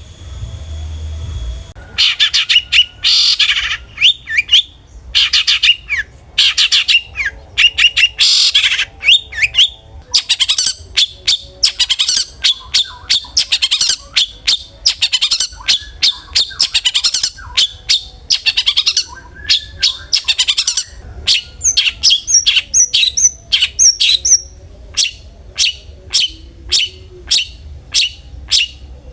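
Long-tailed shrike (cendet) calling loudly in harsh, scratchy runs of high notes, breaking into a string of short sharp notes, several a second, near the end.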